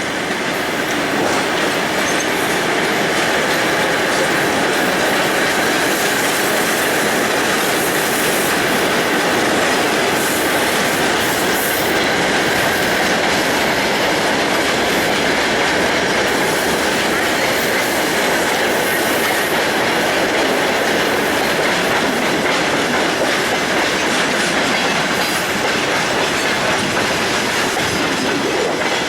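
Freight train rolling steadily past: the continuous rumble of its wagon wheels on the rails.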